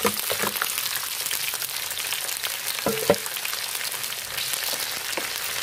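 Chicken feet frying in hot oil in a wok with browned garlic and onion: a steady sizzling hiss, with a few short knocks, the loudest about three seconds in.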